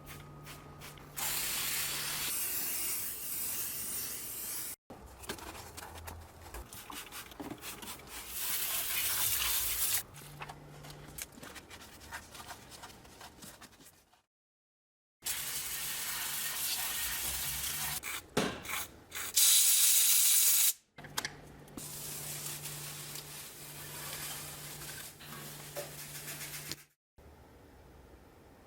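Cleaning sprays hissing onto a car's engine bay in several separate spells, split by abrupt cuts, the loudest spell about two-thirds of the way through. Quieter clicking and rubbing fill the gaps between sprays.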